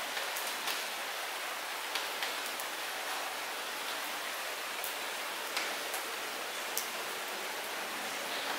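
Light rain falling steadily, a soft even hiss with scattered individual drops ticking sharply on nearby surfaces.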